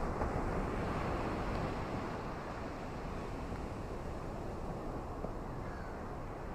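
Steady wash of ocean surf mixed with rain, swelling slightly in the first two seconds and then holding even.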